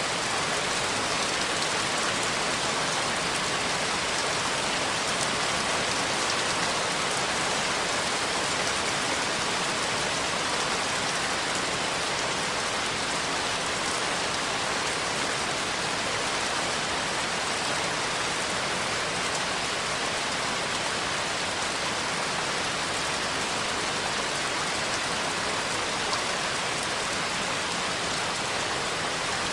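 Steady rain falling: a constant, even hiss of drops with no breaks or changes.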